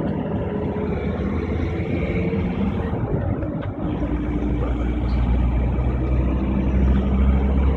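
Steady engine and road noise of a driving vehicle, with a deep low drone that grows stronger about four seconds in.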